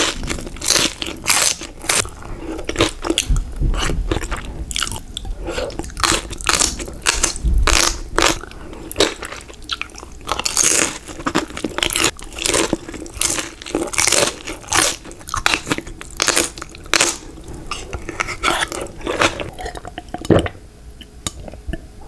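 Close-miked chewing of crispy fried dumplings: a rapid, irregular run of crisp crunches and bites, which stops shortly before the end.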